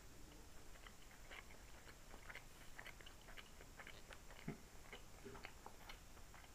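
Close-miked, wet chewing of a mouthful of steamed momo dipped in chutney: a run of small, faint mouth clicks and smacks, with one sharper click about four and a half seconds in.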